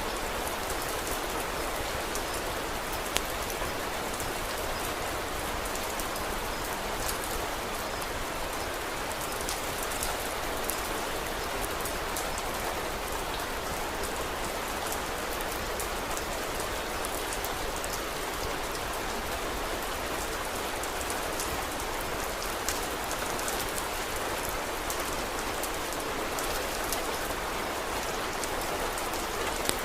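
Steady rain falling, an even hiss with a few sharp clicks standing out now and then.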